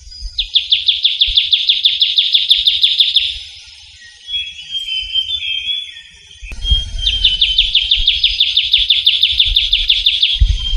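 Trilling shrike-babbler singing two long, rapid trills of evenly repeated notes, each lasting about three seconds, with softer warbled notes in the gap between them.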